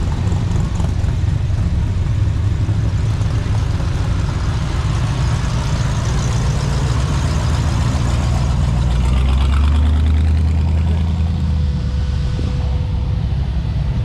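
Car engines running at low speed in slow-moving traffic. A deeper engine sound swells about nine seconds in and fades again a few seconds later.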